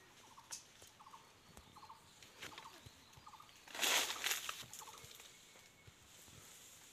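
Birds making short, repeated clucking calls, fairly quiet, with a brief louder rush of noise about four seconds in.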